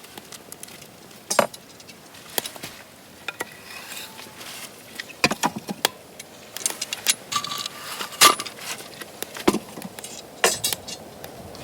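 Metal parts of a fire pit clinking and knocking as they are handled, in irregular sharp knocks. A short metallic ring comes about eight seconds in.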